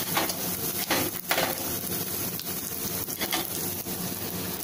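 Cumin seeds sizzling steadily in hot ghee in a small pan, the tempering (tadka) for dal, with a few light clicks and knocks.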